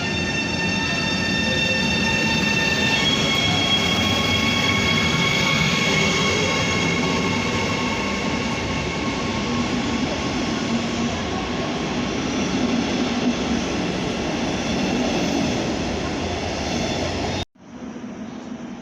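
Train running on the rails: a steady rumble of wheels under several high, steady whining tones that jump in pitch about three seconds in. The sound breaks off abruptly near the end.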